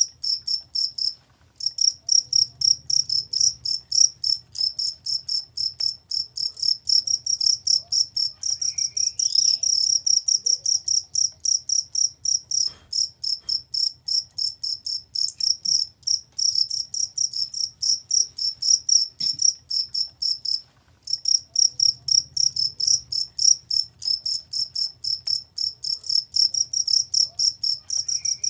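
Cricket chirping in a fast, even series of short, high, clear pulses, about four a second, with two brief breaks: one about a second in and one about twenty seconds in.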